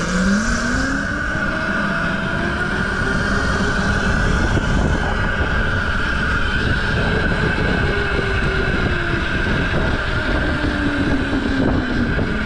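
Mini bike engine revving up as it pulls away, then held at high revs with its pitch rising and falling, over a steady high whine.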